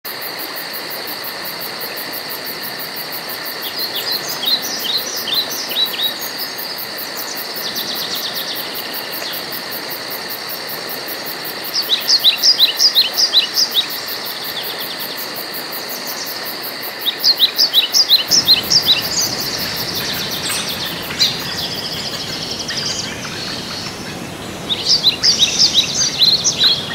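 Songbirds singing: short phrases of quick, high chirps repeated every few seconds over a steady background hiss.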